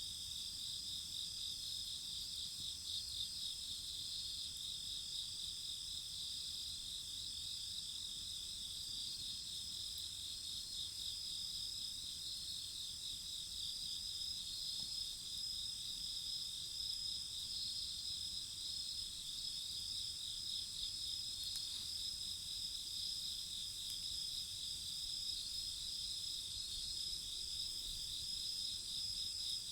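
A steady night chorus of crickets and other insects, several high-pitched trilling voices layered together with a fast pulsing chirp among them.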